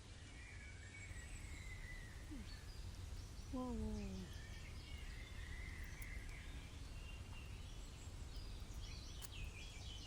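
Woodland ambience: scattered bird chirps and calls over a steady low rumble. About three and a half seconds in there is one short, falling, voice-like hum.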